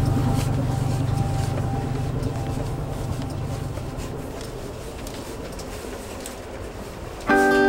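Steady low rumble and hiss of a moving Amtrak passenger train heard from inside a sleeper car, slowly fading down. Acoustic guitar music starts suddenly near the end.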